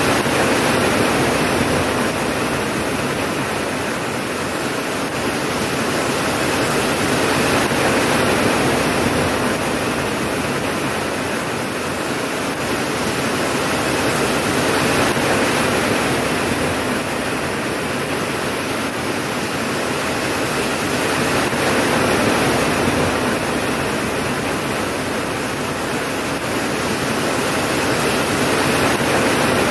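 Steady heavy rain: a dense, even hiss that swells and eases gently every several seconds, with no distinct thunderclaps.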